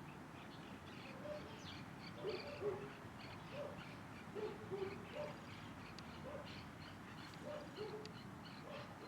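Birds calling: short low-pitched calls, often in pairs, come about once a second, over faint high chirping from other birds.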